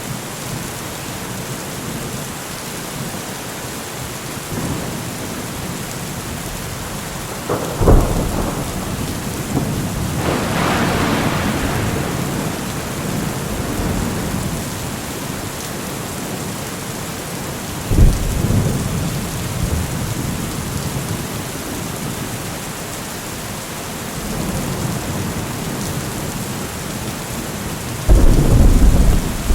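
Steady heavy rain with thunder: sharp cracks about 8 and 18 seconds in, each rolling off into rumble, a longer rumble soon after the first crack, and another loud crack near the end.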